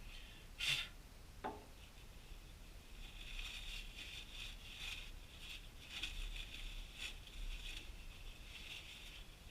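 Quiet handling noises: two sharp clicks in the first second and a half, then a soft, continuous rubbing or scraping with scattered small taps.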